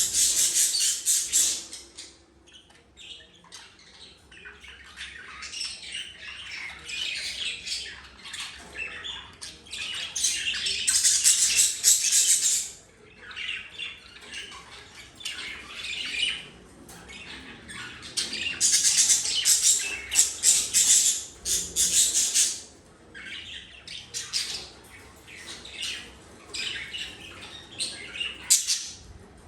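Young budgie (budgerigar) fledgling giving harsh, raspy squawking chirps in repeated bouts of one to three seconds, with short quieter gaps between them.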